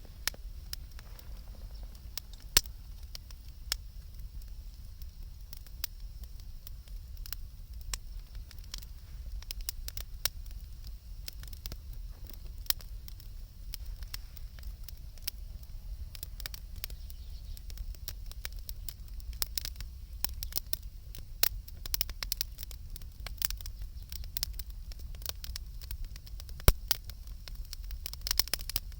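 Wood campfire crackling, with irregular sharp pops and snaps over a steady low rumble; the two loudest pops come about two and a half seconds in and near the end.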